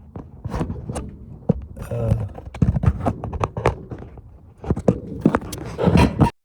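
A run of irregular knocks, clicks and scrapes from hands working with tools and parts, with a brief mumbled voice about two seconds in; the sound cuts off abruptly near the end.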